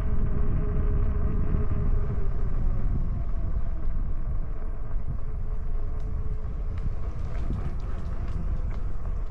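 Riding noise from an e-bike on a trail: wind rumbling over the microphone with tyres rolling. A steady whine fades out a couple of seconds in, and a few light clicks come near the end.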